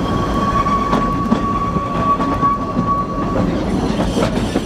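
Narrow-gauge railway carriage running along the track, heard on board: a steady rumble with scattered clicks of the wheels over the rails. A thin, steady squeal sits over it and stops about three and a half seconds in.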